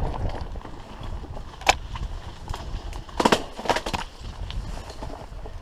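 Bicycle rolling along a rough forest track, with a steady low rumble from the tyres and wind, and sharp rattles and knocks from the bike about two seconds in and again around three to four seconds in.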